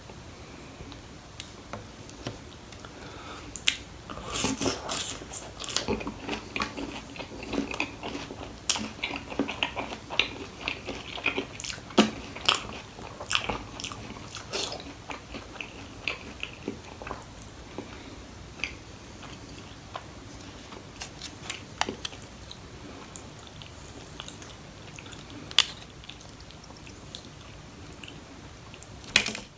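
Close-up mouth sounds of someone biting and chewing crispy fried chicken popcorn and fries with mayonnaise: dense crunching for about ten seconds starting a few seconds in, then softer chewing with the odd sharp crunch.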